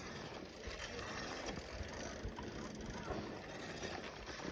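Faint steady rustling with a few light ticks from a bicycle moving along a dirt forest trail.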